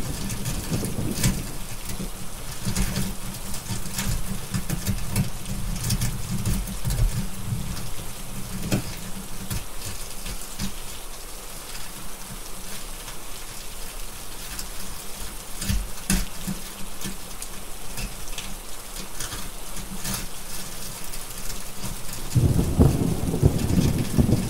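Steady rain with thunder rumbling low for the first several seconds and again near the end, and scattered sharp crackles of a wood fire.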